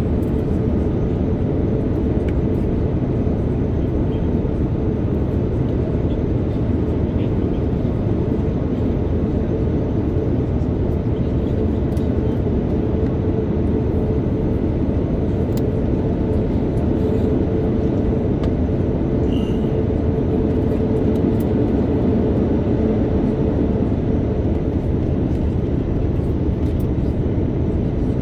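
Steady cabin noise inside an Airbus A330-900neo airliner during its approach: the even rush of airflow and the Rolls-Royce Trent 7000 engines, with a steady hum running underneath.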